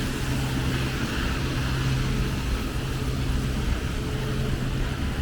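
Street traffic: a motor vehicle's engine running with a steady low hum over a constant hiss.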